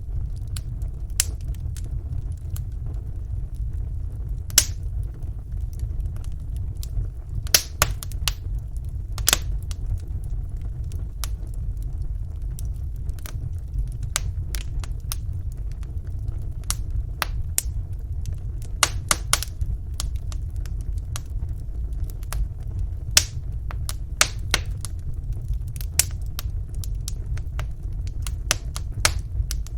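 Wood fire burning in a fireplace: a steady low rumble with irregular, sharp crackles and pops scattered throughout.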